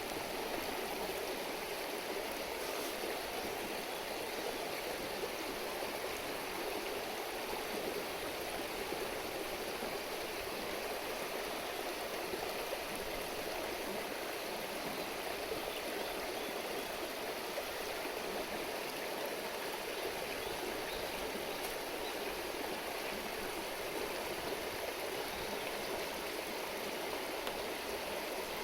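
A stream babbling steadily.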